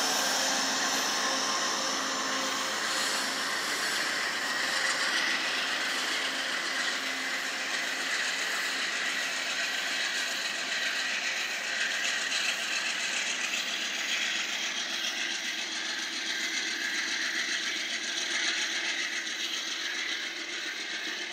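A train rolling past on the rails: steady wheel-on-rail noise that slowly fades.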